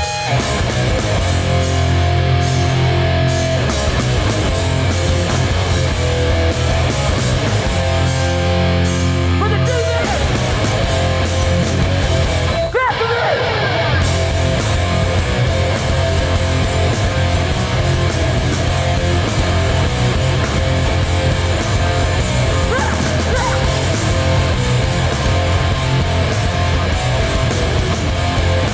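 Hardcore punk band playing live at full volume: distorted electric guitars, bass and drums, with a split-second break about 13 seconds in.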